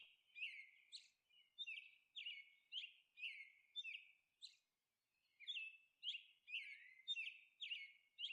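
Faint bird chirping: a string of short, quick falling chirps, about two a second, with a brief pause midway.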